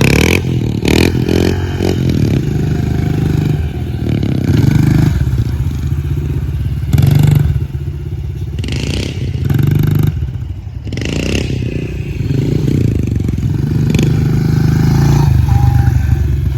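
Honda CRF pit bike's small single-cylinder four-stroke engine running, its revs rising and falling several times, with some clattering.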